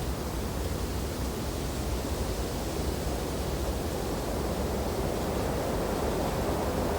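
Wind blowing through tree branches in a snowfall, a steady rushing that swells a little in the second half.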